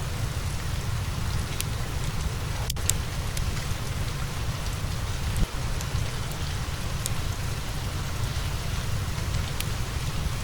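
Steady rain with a low rumble beneath it, and scattered sharp pops and crackles of a wood fire, the clearest a little under three seconds in.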